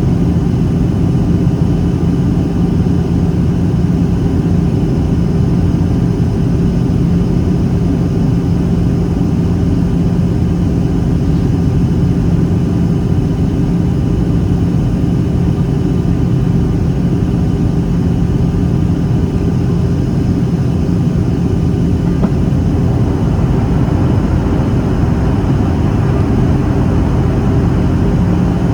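Steady cabin drone of a Boeing 737-800 in flight, from its CFM56-7B turbofan engines and the airflow over the fuselage, heard from a seat over the wing, with a steady low hum running through it. A little more hiss comes in about two-thirds of the way through.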